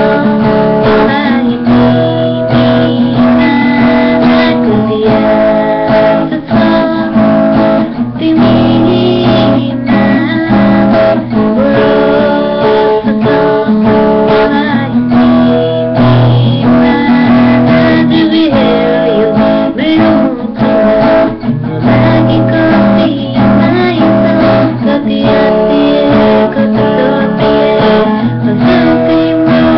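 Acoustic guitar strummed steadily, playing the chords of a pop song.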